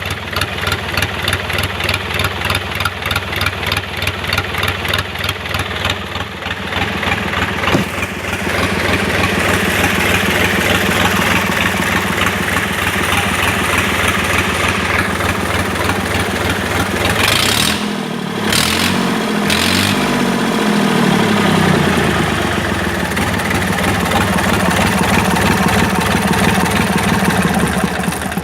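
Yanmar 3JH30A three-cylinder marine diesel running on test with a regular beat. It is brought up to a higher speed about seven seconds in and held there, with a brief dip and rise in speed a little past the middle.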